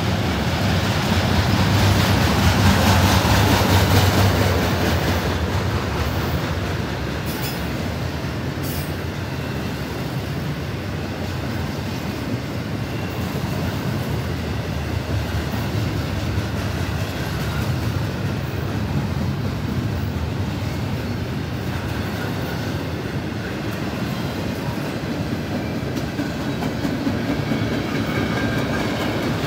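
Norfolk Southern freight train rolling past, a steady rumble with the clatter of wheels on the rails, loudest a few seconds in.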